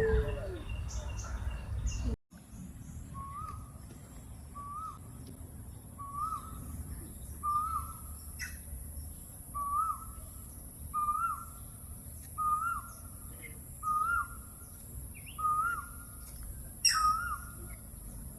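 A bird repeating a short call over and over, roughly one call every second and a half, with fainter chirps from other birds behind it. Before that, a second or two of low outdoor rumble with bird chirps cuts off abruptly.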